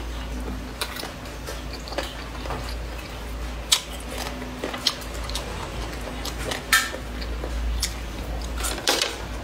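Close-miked chewing of spicy boneless chicken feet and cucumber: wet chewing with scattered crunches and sharp clicks, a few louder clicks about four, seven and nine seconds in, over a steady low hum.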